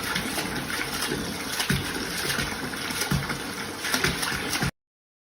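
Steady rush of running water with a few knocks, cutting off suddenly near the end.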